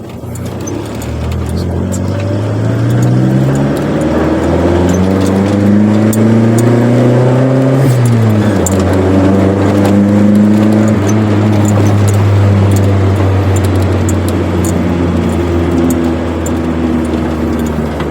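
Chevrolet Corsa's engine through a sport exhaust, accelerating with the revs climbing for about eight seconds. A gear change then drops the pitch, and it pulls on at a steadier pace.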